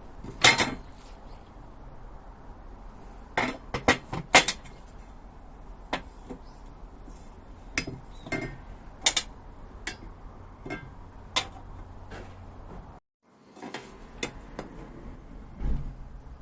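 Irregular light knocks and clinks of small hard parts being handled, with a few sharper strikes, as pieces of a metal campfire table are worked on. The sound cuts out briefly near the end.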